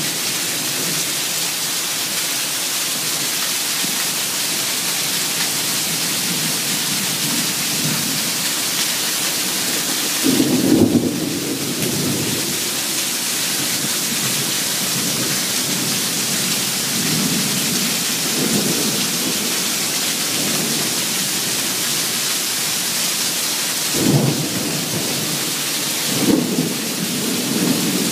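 Heavy rain falling in a steady hiss, with water pouring off the roof edge onto the ground. A few brief, deeper swells rise above it, about a third of the way in and twice near the end.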